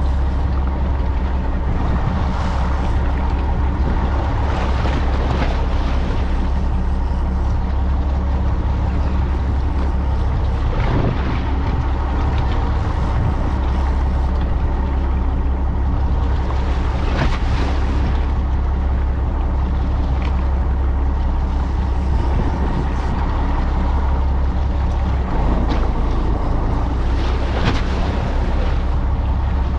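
Fishing boat's engine running steadily, a constant low hum under the rush of wind and water, with a few brief louder swooshes.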